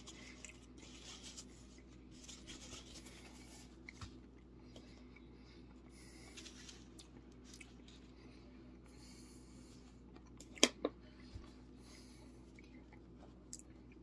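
Faint chewing and mouth sounds of someone eating a breaded chicken sandwich, with two sharp clicks in quick succession about three-quarters of the way through.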